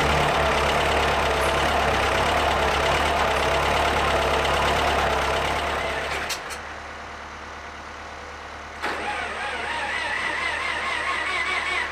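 Ford 6610 tractor's diesel engine running. The sound drops off about six seconds in and picks up again near nine seconds with a wavering whine.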